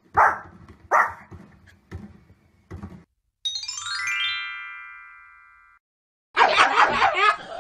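A dog barks twice, a second apart, with a few smaller knocks after. Then a bright chiming jingle runs down a scale and holds on a chord. Near the end, a pug starts barking and yipping rapidly, several times a second.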